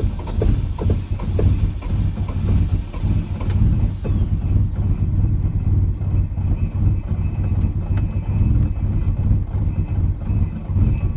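Car engine running rough just after a cold start, with an uneven idle that struggles to hold and irregular sharp pops in the first few seconds. The owner suspects three-month-old gas or a bad wiring harness.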